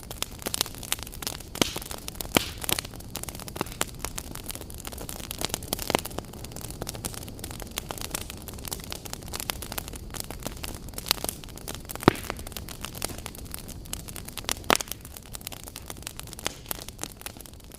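Wood fire in a fireplace crackling, with a steady low rumble and frequent sharp snaps and pops, a few of them louder.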